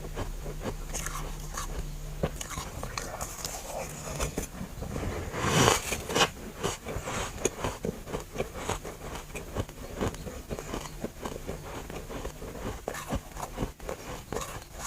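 Freezer frost being bitten and chewed close to the mic: a steady run of irregular crunches, with a louder bite about six seconds in.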